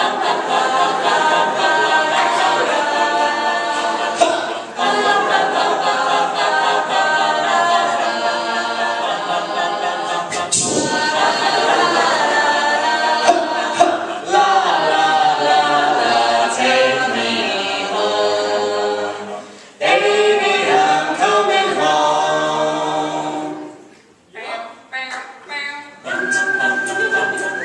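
An a cappella vocal group singing wordless sustained harmonies in several parts. The voices briefly drop away near the end, then come back in.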